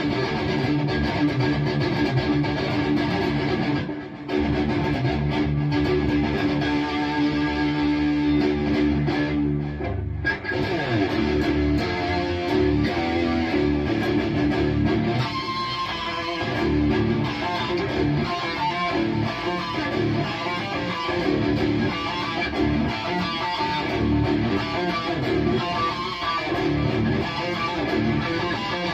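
High-gain distorted electric guitar played through a Bogner Uberschall preamp, riffing continuously with a brief break about four seconds in.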